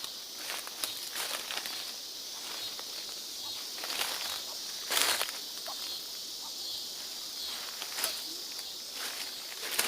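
Footsteps and rustling of leaves and stalks as someone moves through garden plants, with scattered crackles and one louder rustle about halfway through. Behind it a steady high-pitched insect drone.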